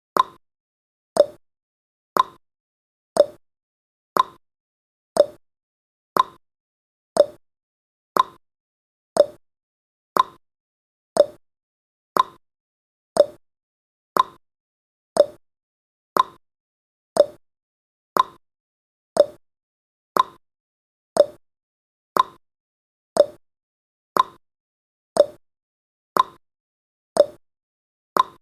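Clock-style ticking sound effect of a countdown timer: one short, sharp tick each second, evenly spaced.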